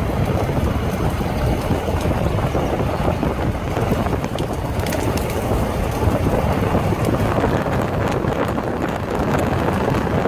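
Steady, loud wind noise with a low rumble, wind buffeting the microphone during a tornado storm.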